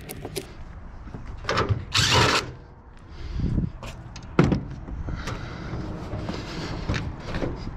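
Knocks, clanks and a short scraping slide of sheet metal as an old Litton microwave is handled and opened up by hand. The scrape comes about two seconds in and the sharpest knock about four and a half seconds in.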